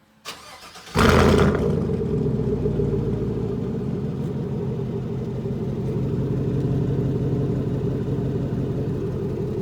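Chevy Silverado 5.3 V8 with a true-dual exhaust (factory cats, no mufflers or resonators) starting warm: a brief starter crank, then the engine catches about a second in with a loud flare and settles into a steady idle with a good little chop.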